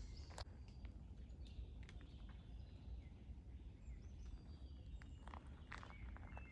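Faint birdsong: scattered short chirps and brief whistled glides from small birds over a steady low rumble, with a few short clicks.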